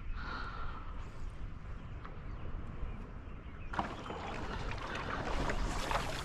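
Wind rumbling on the microphone over water noise around a kayak; about four seconds in, a louder, even hissing wash sets in.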